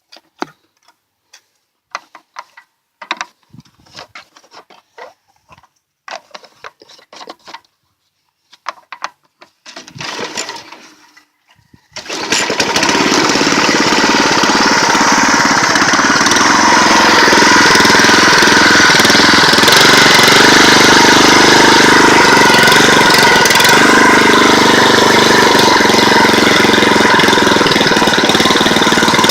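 Scattered clicks and knocks, then about twelve seconds in the 6.5 hp single-cylinder Briggs & Stratton engine of a Huskee 22-ton log splitter starts and runs steadily. It is pretty loud because of a big hole in the exhaust downpipe.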